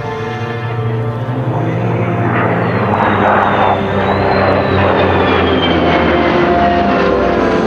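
Heritage Flight formation of an F-16 jet fighter and a P-38 Lightning making a flyby. The noise swells from about two seconds in, and a high whine falls in pitch as the formation passes.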